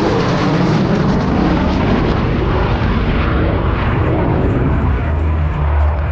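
Lockheed Martin F-22 Raptor's twin Pratt & Whitney F119 turbofans making a loud jet roar on a high-speed flyby. The hiss fades from about three seconds in as the jet goes away, leaving a deep rumble.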